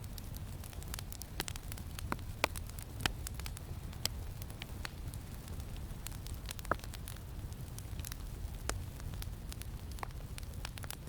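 Campfire crackling, with irregular sharp pops, over a steady low rumble of wind.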